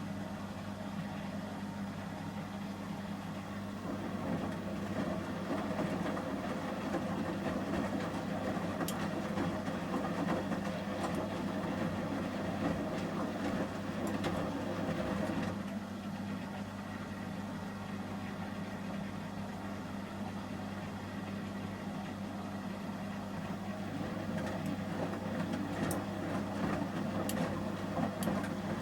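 Samsung Series 5+ front-loading washing machine in its heated wash stage: a steady motor hum, with the drum tumbling the load in louder spells, one from a few seconds in to about halfway, then a quieter pause, then again near the end.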